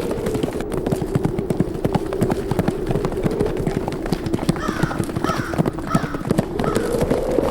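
A herd of horses galloping, a dense, rapid drumming of hooves, over a steady wind. About two thirds of the way through, a bird calls four times in short, falling notes.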